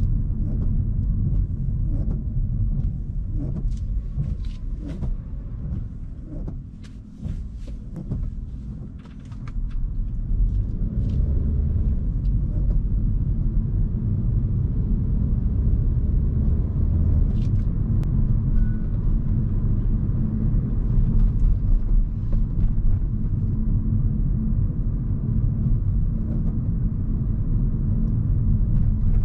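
Hyundai Kona Hybrid driving, with a steady low rumble of road and tyre noise. It eases off for a few seconds, with some scattered clicks, between about six and nine seconds in, then settles back to a steady rumble.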